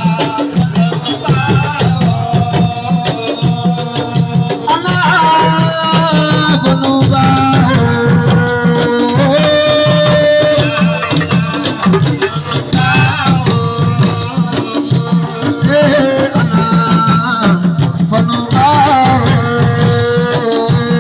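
Live assiko band music: a melody that bends and glides like a singing voice, over steady drumming and shaken rattles.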